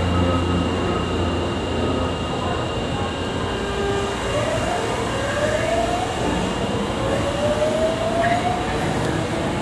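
Osaka Metro Tanimachi Line subway train running along the platform, wheels rumbling, its electric traction motors giving a whine that rises in several steps from about four seconds in as the train accelerates.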